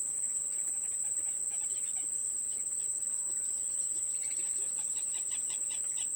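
Steady high-pitched insect chorus of crickets or cicadas, with faint, rapid bird chirps in the second half.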